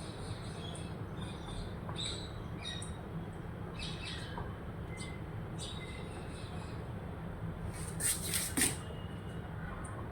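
Birds giving short, scattered chirps, with a louder burst of calls about eight seconds in, over a steady low rumble.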